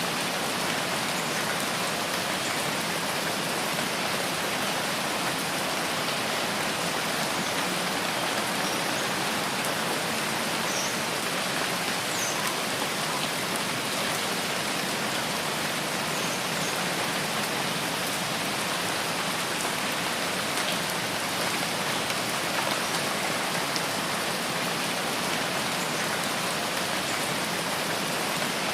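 Steady rainfall, an even hiss of rain pattering on leaves and surfaces.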